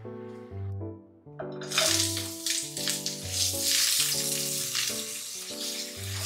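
Sliced onions sizzling in hot oil in a frying pan, the hiss starting about a second and a half in, over background music.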